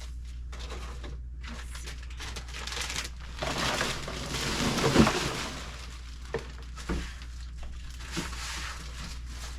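Plastic food packaging crinkling as it is handled, with a sharp knock about five seconds in and a few lighter clicks after.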